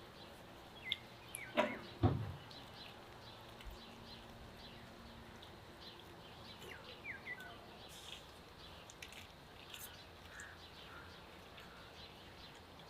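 Small birds chirping, short high calls scattered throughout over a quiet outdoor background, with two brief knocks about one and a half and two seconds in.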